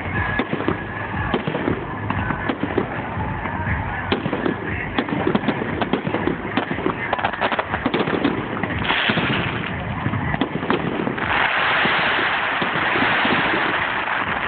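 Fireworks display: a rapid run of bangs and crackles, with a dense, loud crackling hiss from about three-quarters of the way in that lasts a few seconds, and a shorter one a little earlier.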